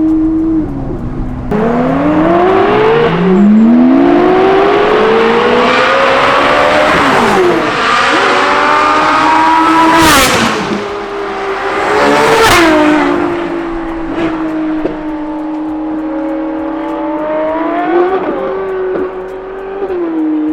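Straight-piped Ferrari 458 Italia V8 pulling hard through several gears, the engine note rising sharply and dropping at each upshift. There are two loud sharp exhaust bangs about ten and twelve seconds in. The engine then settles to a steady cruise, with a brief rev blip near the end.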